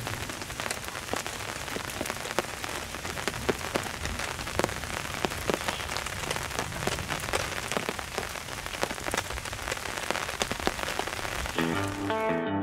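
Steady rain falling, with many separate drop hits close by. Acoustic guitar music comes in near the end.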